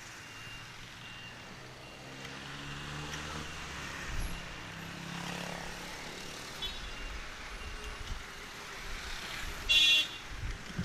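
Road traffic: a passing vehicle's engine drones, rising in pitch, through the first half. Near the end a vehicle horn gives one short, loud, high-pitched beep.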